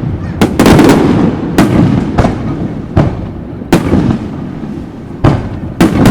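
Aerial firework shells bursting overhead: a string of loud, irregular bangs, some in quick clusters, each followed by a rumbling echo that dies away.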